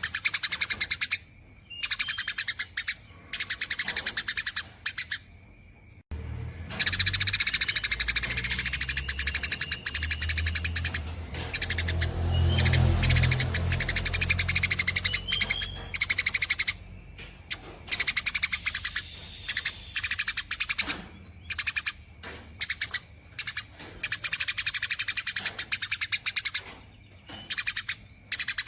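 Eurasian tree sparrow giving long, rapid chattering calls ('nyerecet') in runs of a few seconds, broken by short pauses.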